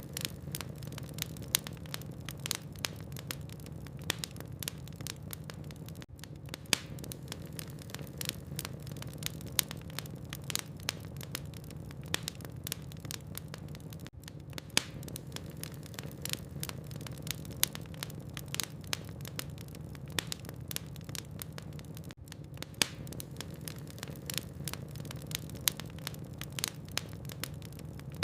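Burning logs in a fireplace crackling: frequent sharp pops and snaps, several a second, over a steady low hum.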